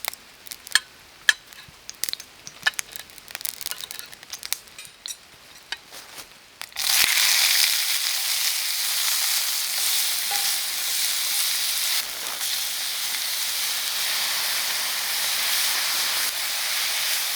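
Scattered pops and clicks at first. About seven seconds in, food goes into a hot pan and a loud, steady frying sizzle takes over: sausage and peppers frying.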